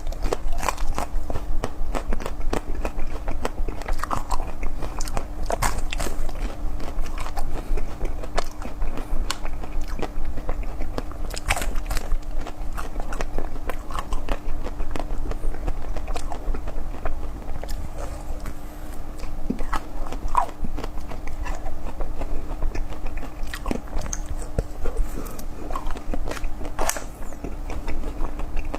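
Close-miked ASMR eating: continuous wet, crackly biting and chewing with dense irregular clicks. A faint steady hum runs underneath.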